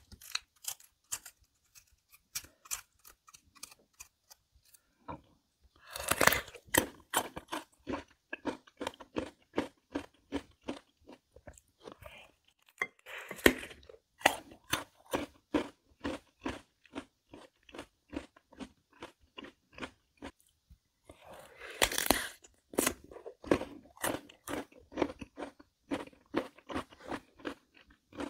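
Crisp Korean melon (chamoe) flesh, seeds scooped out, being chewed: a rapid run of crunchy chewing clicks, with louder crunches about six, thirteen and twenty-two seconds in and a short lull early on.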